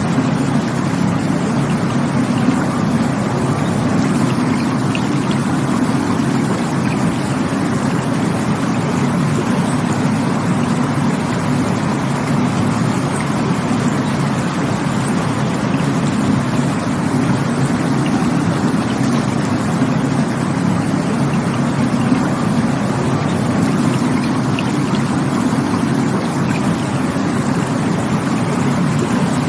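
Rushing stream water running in a steady, low, even rush.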